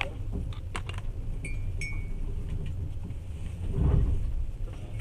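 Passenger train running, heard from inside the carriage: a steady low rumble with light rattles and clicks, two short metallic clinks about one and a half and two seconds in, and a louder swell of rumble near the end.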